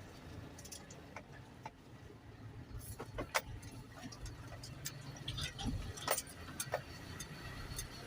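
Garbage truck engine running with a low, steady rumble, and many irregular sharp clicks and rattles over it, loudest in the middle of the stretch.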